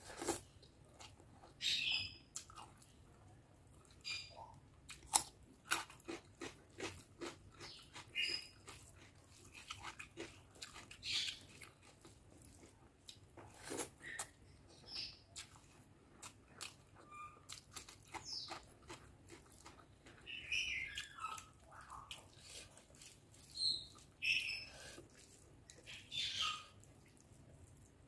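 Close-miked chewing and wet lip smacking of a person eating rice and curry by hand, with many irregular sharp mouth clicks and short squelching smacks.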